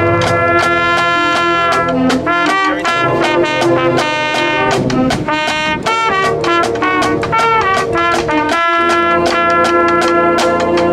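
A brass band playing an upbeat tune: held horn notes and chords over a steady drum beat.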